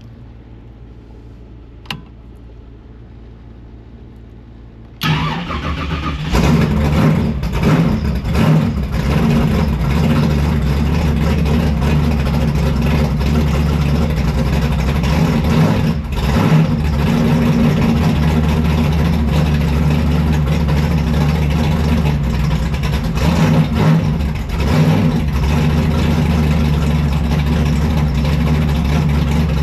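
Car engine firing up after a single click, then running at a steady idle, revved briefly a few times. It is the first run after a rebuilt transmission was installed, circulating the new transmission fluid.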